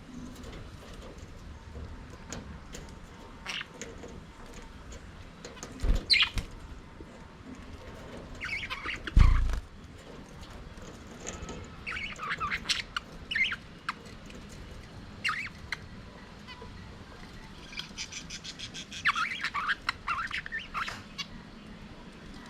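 Budgerigars chirping and squawking in scattered bursts of short, high calls. Two brief low thumps come about six and nine seconds in, the second the loudest sound.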